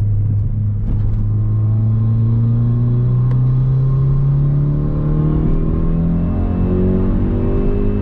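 2017 Hyundai Veloster Turbo's turbocharged 1.6-litre four-cylinder through a straight-piped exhaust with resonator and muffler deleted, pulling steadily under acceleration, its drone rising slowly in pitch as the revs climb.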